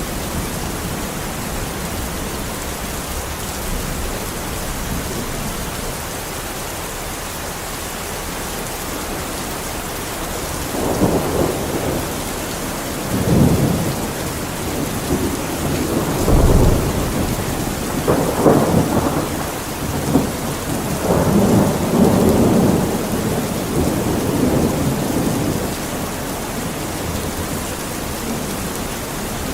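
Steady rain, with thunder rumbling several times in rolling swells through the middle.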